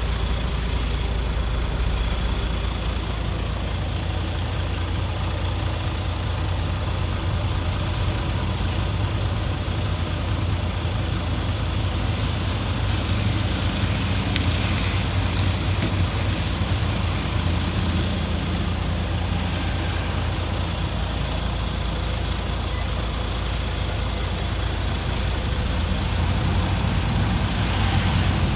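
Heavy diesel engine of a crawler bulldozer running steadily at working speed, a continuous low drone.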